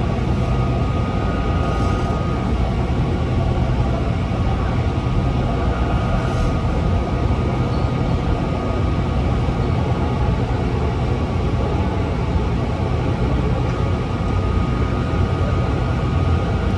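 Taichung MRT Green Line train running at a steady speed: a continuous low rumble of wheels on rails with a steady whine over it.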